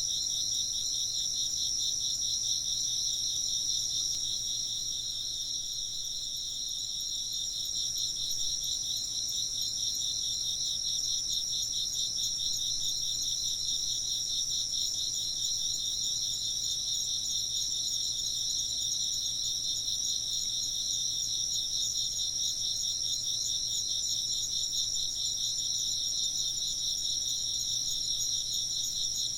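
A chorus of insects chirping steadily, a dense high-pitched pulsing trill that doesn't let up.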